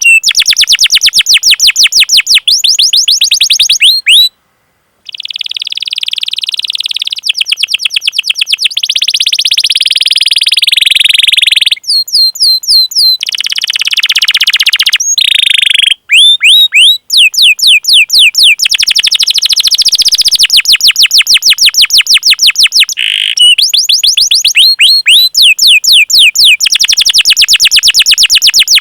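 Canary singing long, fast rolling trills of rapidly repeated high notes, switching from one trill type to another. The phrases are broken by short pauses, with a brief silence about four seconds in.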